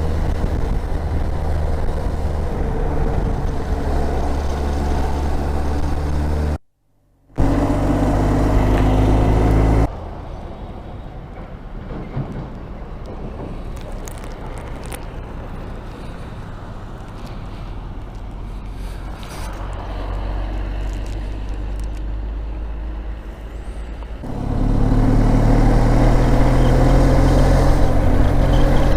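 Motorcycle engine running at riding speed with wind noise. It cuts out briefly about seven seconds in, runs quieter from about ten seconds, and comes back louder near the end.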